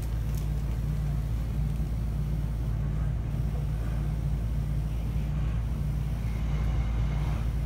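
Steady low rumble of a Class 465 Networker electric multiple unit heard from inside the carriage, running without a break.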